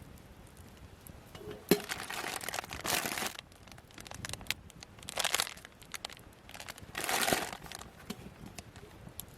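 Crinkling and rustling of something crumpled by hand, in three bursts, with a sharp tick at the start of the first.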